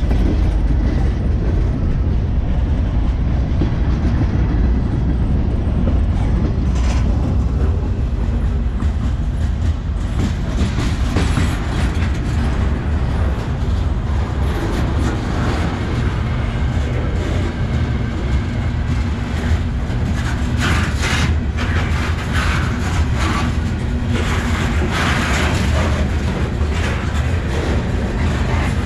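Freight cars of a long freight train rolling past up close: a steady, loud rumble with wheels clacking over the rail joints. From about ten seconds in it turns harsher, with stretches of higher-pitched metallic noise.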